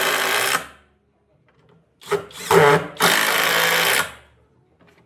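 A hand-held electric power tool running in short bursts. One run stops about half a second in. Another starts about two seconds in, revs briefly, then runs for about a second more before stopping.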